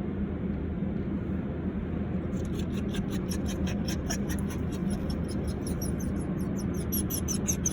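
Automatic car wash running, heard from inside the car: a steady low rumble and hum. About two seconds in, a fast, regular swishing starts at about four strokes a second.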